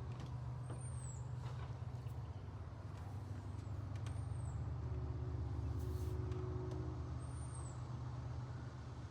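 A bird repeats a short, high, arching call about every three seconds over a steady low rumble that sounds like distant traffic, with a faint hum swelling briefly past the middle.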